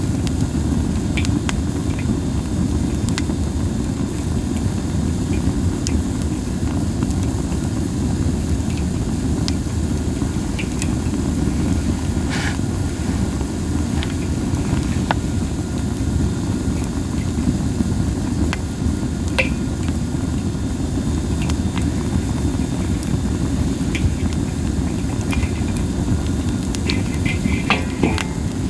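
Wood fire of masaki (Japanese spindle tree) branches burning: a steady low rumble with scattered sharp crackles and pops, and a quick flurry of crackles near the end.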